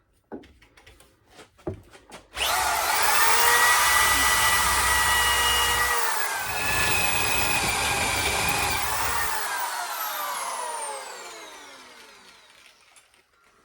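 Electric drill motor starting up and running with a steady whine, dipping briefly about six seconds in. It is let off about two-thirds of the way through and winds down with a falling whine.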